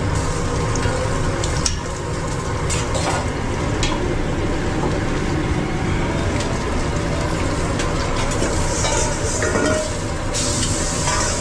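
Food frying and sizzling in a food-truck kitchen over a steady low machine drone, with scattered clicks of utensils. The sizzle grows brighter and hissier near the end.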